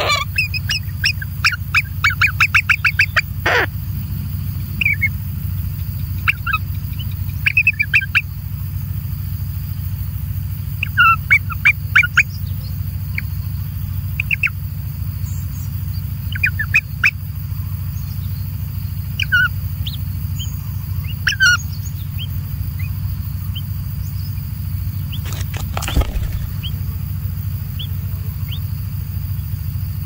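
Short, high bird chirps: a quick run of about five a second for the first three seconds, then scattered single and paired chirps, over a steady low hum. A knock sounds about three and a half seconds in and again near twenty-six seconds.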